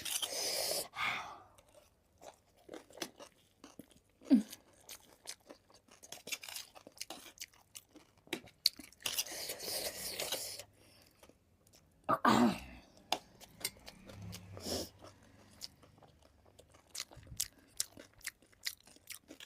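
A person eating at close range: chewing and crunching with irregular mouth smacks, and longer noisy crunching stretches at the start and about halfway through.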